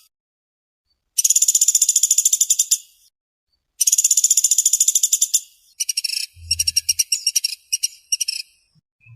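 A pelatuk (woodpecker) calling in fast, tight rattling trills of about a dozen high notes a second. There are two long trills, then a run of shorter broken rattles near the end.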